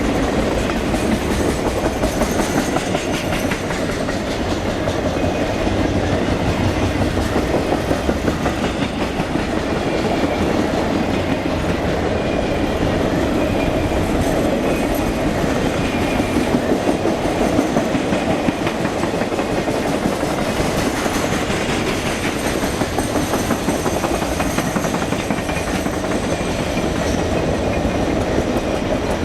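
Norfolk Southern RoadRailer train rolling steadily past, its highway trailers riding on rail bogies whose wheels click over the rail joints.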